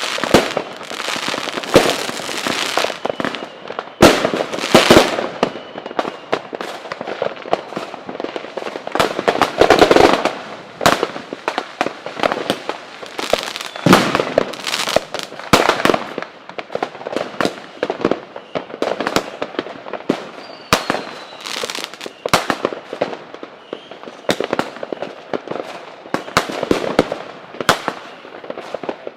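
Fireworks display: a continuous barrage of bangs and crackling, with the heaviest volleys of loud bangs scattered through, and a few faint whistles.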